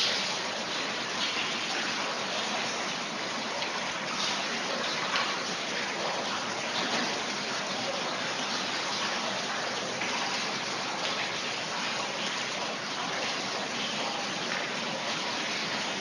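Rainwater gushing and splashing in a steady rushing flow, with no let-up.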